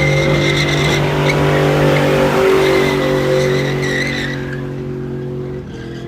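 Car spinning its tyres: engine held at steady high revs with tyre squeal. About four and a half seconds in the squeal stops and the engine fades away.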